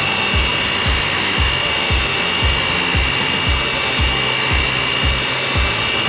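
Electric hand mixer running steadily, whipping instant coffee, sugar and water into dalgona foam, with a constant high whine. A low thump sounds about twice a second underneath.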